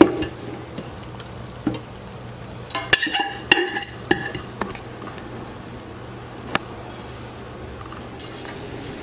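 A metal utensil clinking and scraping against a cooking pot, with a busy cluster of ringing clinks about three seconds in and a few single knocks either side, over a steady low hum.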